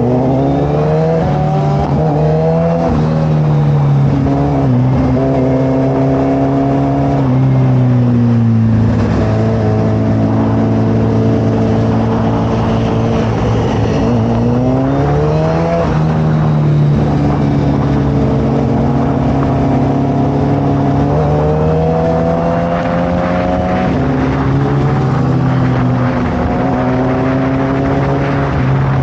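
Suzuki Hayabusa's inline-four engine through a Brock's Performance full carbon-fibre exhaust while riding. The engine note climbs and falls several times with throttle and gear changes, holding steady in between.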